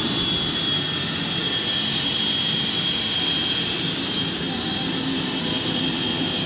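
A motor-driven shop machine running steadily, a loud rushing noise with a high, steady whine, switched on just before.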